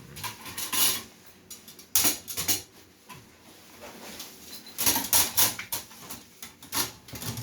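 Metal parts of a Coleman mini fire-pit grill, including its iron grill mesh, clinking and rattling as they are handled and fitted together, in several clusters of sharp clicks.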